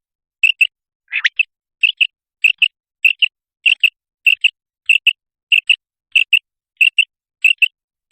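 Common quail calling: a steady series of sharp, high double notes, about one and a half pairs a second, with one longer upswept note about a second in.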